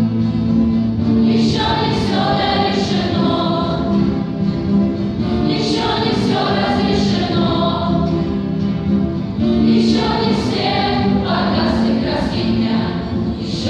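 A group of voices singing a song in chorus over sustained instrumental accompaniment.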